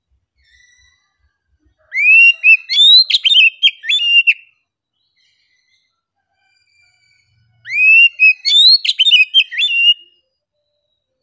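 Oriental magpie-robin (kacer) singing two loud phrases a few seconds apart, each about two and a half seconds long: rising whistled notes followed by a quick run of varied whistles and sharp chips.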